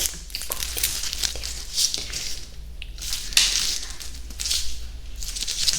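Close-miked ASMR mouth sounds: short, crackly, hissing bursts coming at uneven intervals, loudest about three and a half seconds in.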